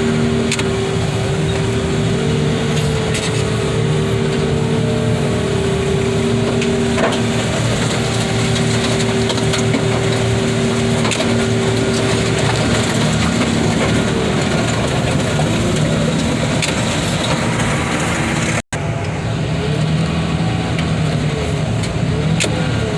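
Diesel heavy equipment running steadily with a hydraulic whine while car bodies are crushed, with scattered cracks and crunches of breaking metal. The sound cuts out for an instant about two-thirds of the way through.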